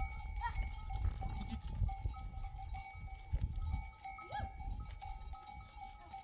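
Livestock bells on a flock of sheep and goats ringing steadily at several pitches as the animals move, with a short animal call about four seconds in.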